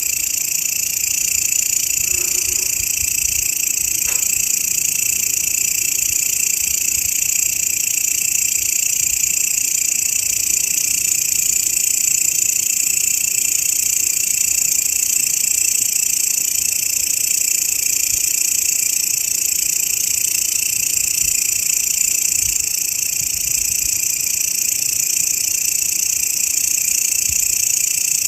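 Grasshopper stridulating in a continuous, unbroken high buzz.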